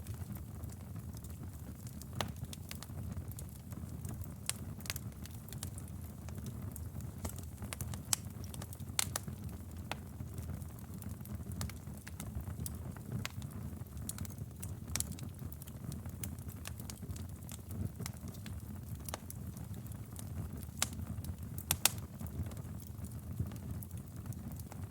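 Wood fire in a fireplace crackling: a steady low rumble of flames with irregular sharp pops and snaps, a few louder ones scattered through.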